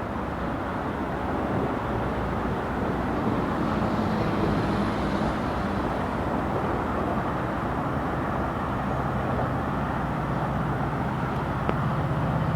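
GO Transit commuter train rolling along the track, a steady rushing rumble of wheels and rail. About three-quarters through, a low diesel engine hum grows in.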